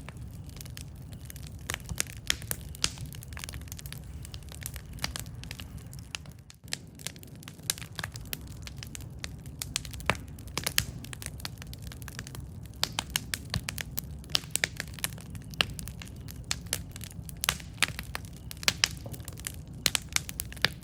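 Wood campfire crackling, with irregular sharp pops and snaps, some louder than others, over a steady low rumble of the burning fire.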